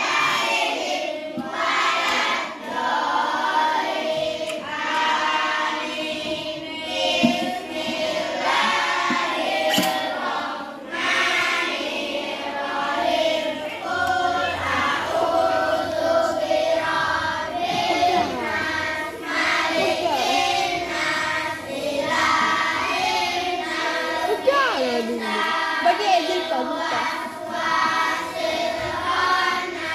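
A class of young schoolchildren chanting together in unison in a sing-song voice, the group prayer recited before a lesson.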